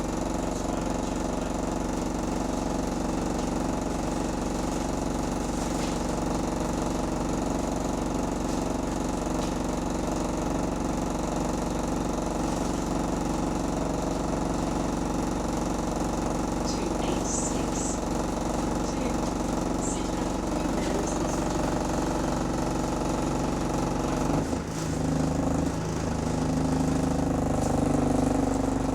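Diesel bus engine running steadily with a rapid knocking beat, the rod knock that shows the engine is worn at a connecting-rod bearing. Its note changes about three quarters of the way through and grows a little louder near the end, with a few brief high chirps a little past the middle.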